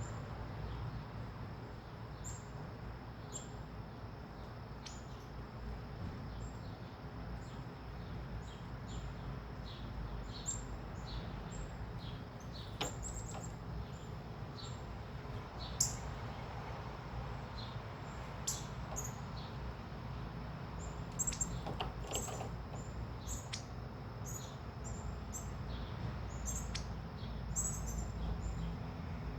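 Small birds chirping, with short high chirps scattered throughout and growing busier near the end, over a steady low rumble. A couple of sharp clicks come about halfway through.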